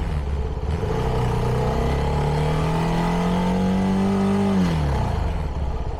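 CFMoto 300NK single-cylinder engine on its stock exhaust pulling away under throttle. The revs climb steadily for about four seconds, then drop sharply near the end.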